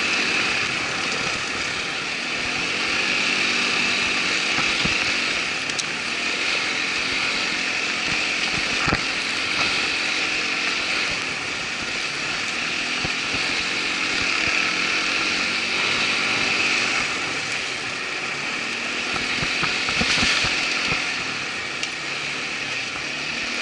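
Irbis ATV 200 quad bike's engine running while under way, its revs rising and falling slightly, with a few knocks along the way.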